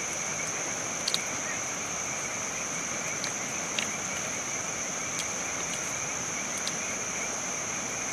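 Steady night-time outdoor ambience: a constant high-pitched insect chorus over an even hiss, with a few sharp clicks, the clearest about a second in and near four seconds in.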